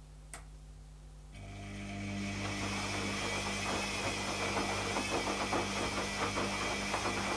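Zanussi ZKN7120L washing machine starting up. A single click comes first, then about a second and a half in a steady hum with a rushing noise comes in, swells over about a second and keeps going.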